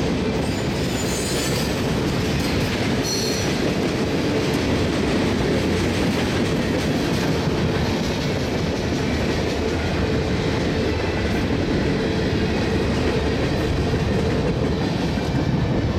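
Freight cars of a mixed manifest train rolling past at trackside: a steady rumble and clatter of steel wheels over the rail joints, with brief high wheel squeals in the first few seconds.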